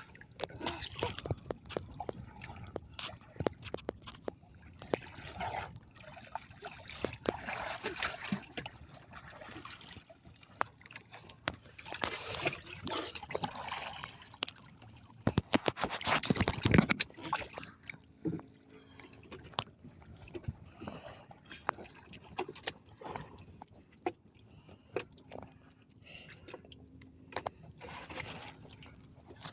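Water splashing and sloshing, broken by many small knocks and clatters; the loudest splash comes about sixteen seconds in.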